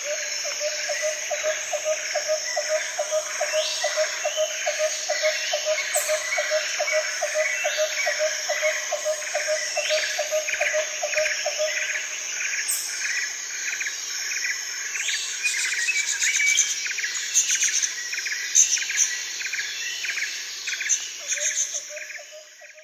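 Tropical jungle ambience: a dense chorus of insects with birds chirping over it, and a low call pulsing about three times a second that drops out about halfway through and comes back near the end. It fades out at the very end.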